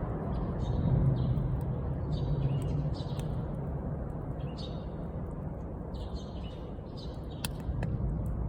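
A bonfire outdoors: a steady low rumble with small birds chirping again and again, and a couple of sharp pops from the burning wood near the end.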